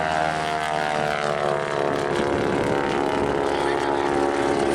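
Boeing Stearman biplane's engine and propeller droning as it flies past, the note dropping in pitch over the first couple of seconds and then holding steady.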